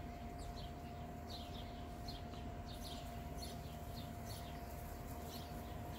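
Small birds chirping outdoors: short, high, quick chirps in loose clusters, a few a second. Beneath them run a steady faint tone and a low background rumble.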